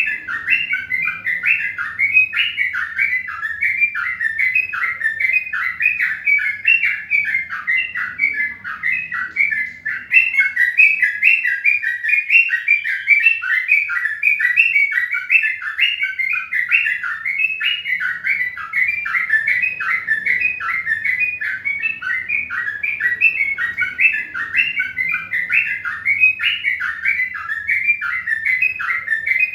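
Bird chirping without a break, a rapid run of short repeated notes, a few each second.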